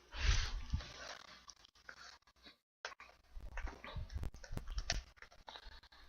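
Crinkling and rustling of baseball card packaging and cards being handled, with scattered light clicks and taps and a few soft bumps.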